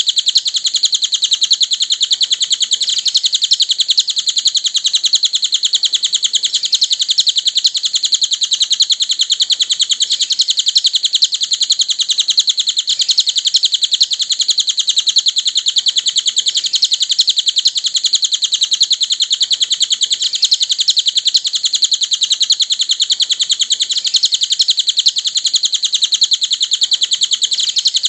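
Cililin songbird chirping in a continuous, very rapid, high-pitched trill that keeps an even pace and loudness, as played in a masteran song recording.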